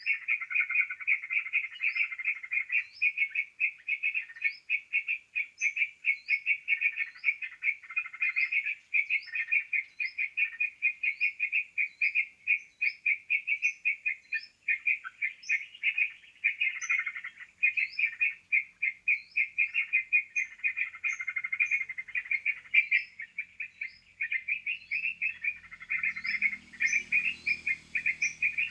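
A dense chorus of yellow-vented bulbuls (trucukan) chattering, played as a bird-lure call. Rapid overlapping chirps run without pause, with short high falling notes repeating about once or twice a second.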